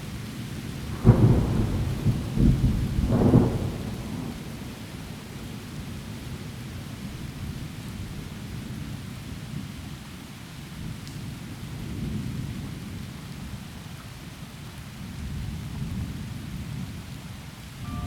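A thunderclap about a second in, rumbling on with two more loud peaks over the next two seconds, then fading to low rolling thunder that swells again twice. Heavy rain falls steadily through the trees throughout.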